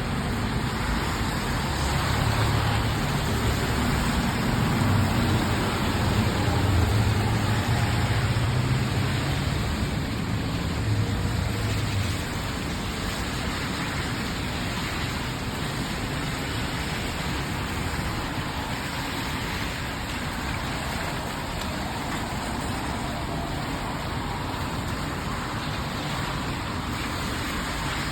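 Steady hiss of rain falling on the road. For about the first twelve seconds a motor vehicle's low engine rumble sits under it, then cuts off.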